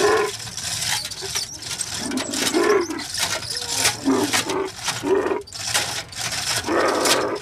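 Camel calling in short repeated calls, mixed with sharp knocks and clatters.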